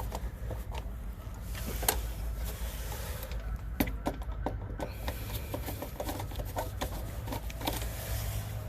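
Scattered small clicks and taps of hand tools and wiring being worked at an HVAC contactor's terminals, with a few sharper clacks, over a steady low rumble.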